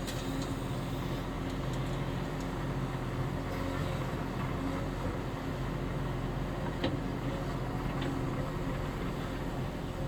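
Caterpillar 330F excavator's diesel engine running steadily under hydraulic work, with a couple of light knocks late on.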